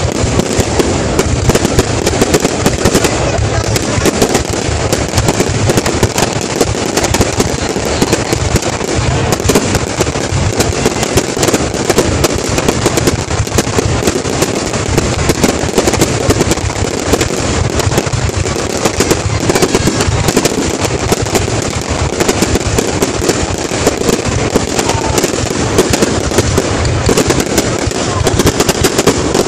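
A fireworks display going off without a break: aerial shells bursting and sparking fountains, heard as a dense, continuous crackling and popping.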